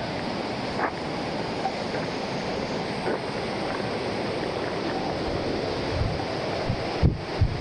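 Steady rushing of a waterfall's falling water. Wind buffets the microphone with a few low thumps near the end.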